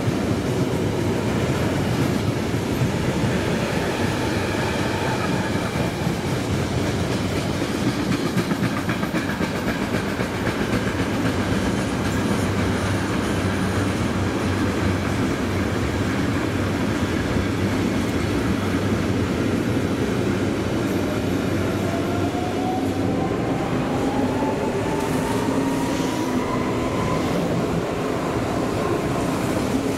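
A train running past on the tracks, its wheels rumbling and clattering steadily, with a whine that rises in pitch over several seconds near the end.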